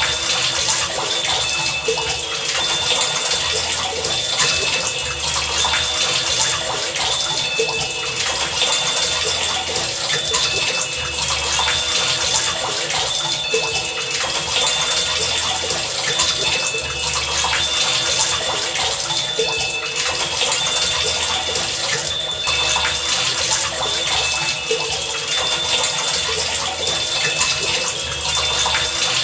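Heavy rain falling steadily as a dense, even hiss of drops. Short high tones come and go over it, and a low pulse repeats every second or two.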